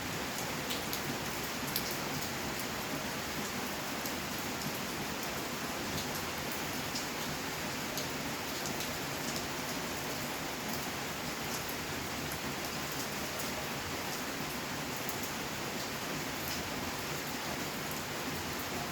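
Steady rainfall, an even hiss with many small drops ticking on surfaces.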